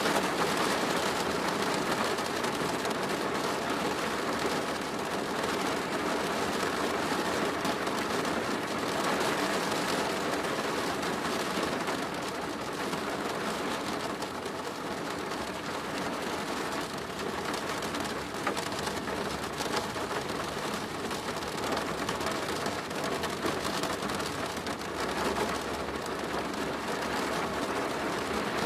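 Steady rain drumming on a plastic roof, a dense patter of drops.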